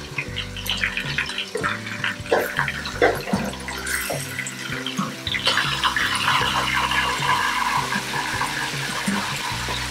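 Raw chicken pieces dropped into hot oil and frying onions in a pot: a string of soft knocks as they go in, then a steady sizzle from about halfway through. Background music plays underneath.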